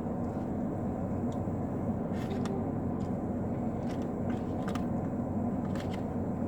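Steady low hum of a parked car running, heard inside the cabin, with a few faint clicks.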